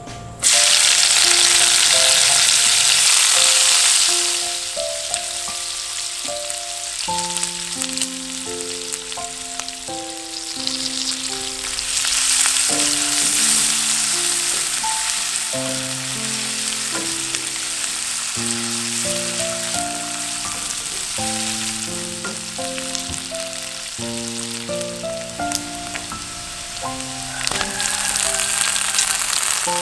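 Dried anchovies, chili paste and aromatics frying in hot oil in a wok. A sudden loud sizzle starts about half a second in as food hits the oil, then settles into steady frying as a wooden spatula stirs, and swells again around twelve seconds.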